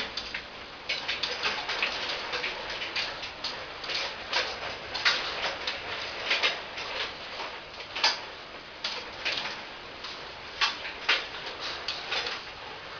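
Rainwater dripping and splashing irregularly as it leaks into a house during a heavy downpour, with a steady hiss of rain underneath.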